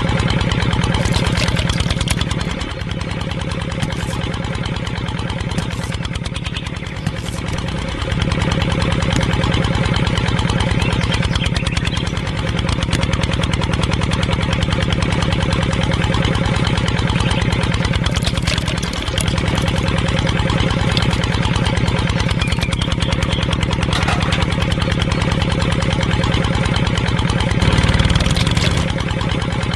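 Small engine running steadily at idle with a rapid, even beat, the level dipping for a few seconds early on and then rising again.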